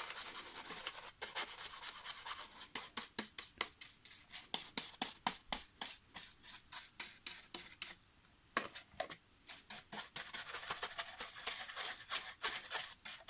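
A brush scrubbing the plastic of a Roomba home base (charging dock) around its contacts, in rapid, scratchy back-and-forth strokes. The strokes pause briefly about eight seconds in, then resume.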